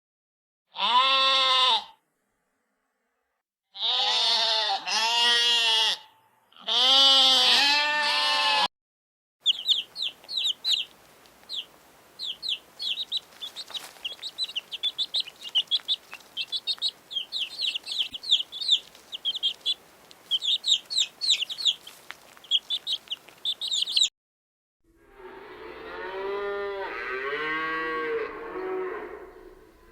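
Animal calls in a row: three wavering bleat-like calls in the first nine seconds, then a long stretch of rapid, high chirping of small birds, then one longer wavering call near the end.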